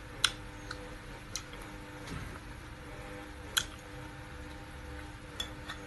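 A person chewing juicy pineapple with the mouth closed, making several sharp, wet clicks spaced irregularly, the loudest about a quarter of a second in. A faint steady hum runs underneath.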